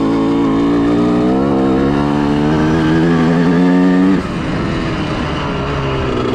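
Honda CR125R's 125 cc two-stroke single-cylinder engine revving up steadily while riding, its pitch climbing for about four seconds, then dropping suddenly and running on at lower revs.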